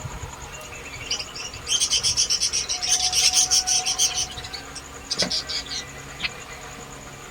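Lovebirds chattering: a rapid run of shrill chirps, about ten a second, lasting some three seconds, then a shorter burst of chirps about a second later.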